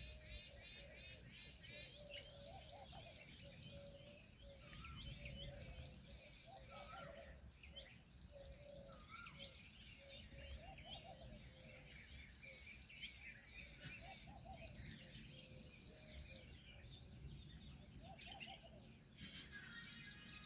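A dense chorus of many birds chirping and calling together, faint, with short lower calls repeating underneath the high chirps.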